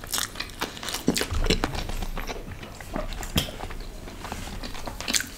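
Chewing paneer tikka: a run of irregular mouth clicks and smacks.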